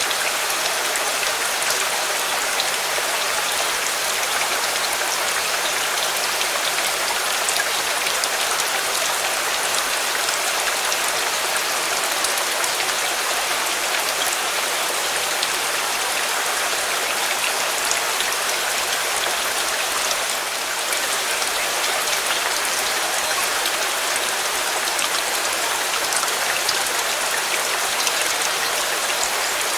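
Steady rain falling on surfaces, an even hiss of many drops.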